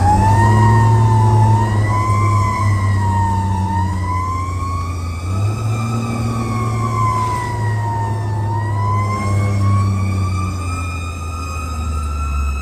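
Fire engine siren that has just wound up, holding a loud wail whose pitch wavers slowly, dipping twice and climbing again near the end, over the steady low running of the fire truck's engine.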